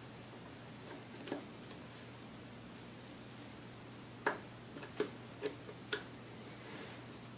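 Light, sharp clicks of tools and small metal parts as the secondary brushes are taken out of a Hamilton Beach Model D mixer motor. There is one click about a second in, then four more about half a second apart a little past the middle.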